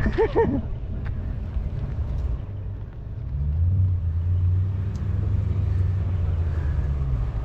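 A car engine running, a low steady rumble that grows louder about three seconds in.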